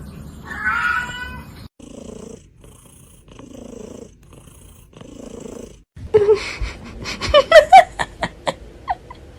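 Domestic cat meowing once, then purring in slow, low pulses. Near the end comes a loud run of sharp clicks and short squeaks.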